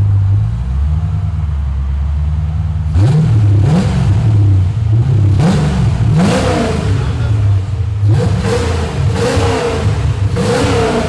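C4 Chevrolet Corvette's 5.7-litre tuned-port V8 idling, then blipped in a string of about seven or eight quick revs starting about three seconds in, through a 3-inch exhaust with a high-flow cat and twin Flowchaser mufflers.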